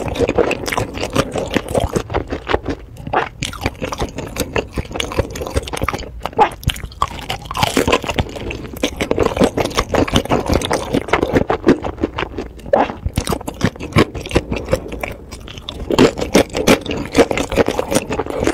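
Close-miked mouth sounds of a person chewing sauce-coated food: a dense run of irregular smacks and clicks, easing off a little about three-quarters of the way through.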